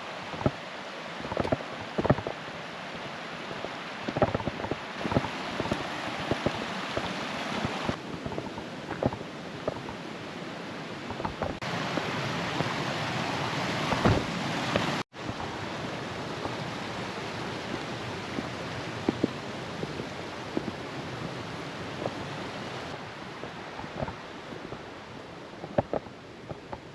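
Steady outdoor rushing noise with scattered crunches and knocks throughout. The background changes level abruptly several times and cuts out for a moment about halfway.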